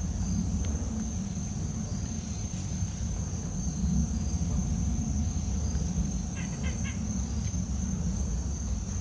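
Insects singing in one steady, unbroken high-pitched drone over a low rumble on the microphone, with a few short chirps a little after six seconds in.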